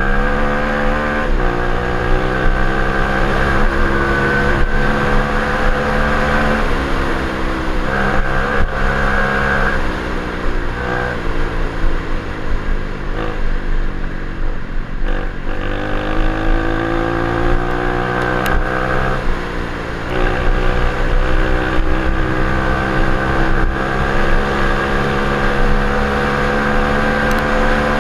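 Orion CRF37-2 125cc dirt bike engine running under load while ridden, its pitch rising and falling as it revs up and changes gear. It eases off in the middle, then builds again.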